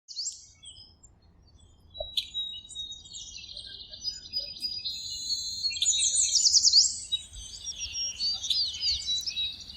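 Songbirds chirping and trilling, several calls overlapping with quick rising and falling whistles. It is busiest and loudest around six to seven seconds in.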